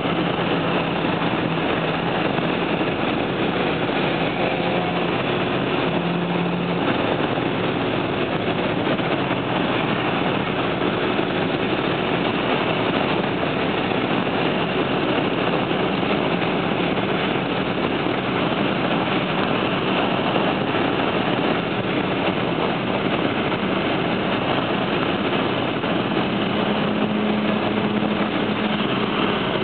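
Steady road and engine noise heard from inside a moving Datsun 810 at cruising speed, an even rush with a faint engine drone under it.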